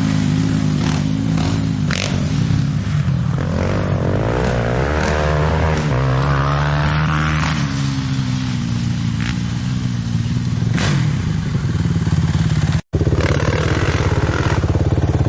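Dirt bike engine running hard, its pitch wavering up and down as the revs change, with a few sharp knocks and clatter. The sound cuts out briefly about two-thirds of the way through.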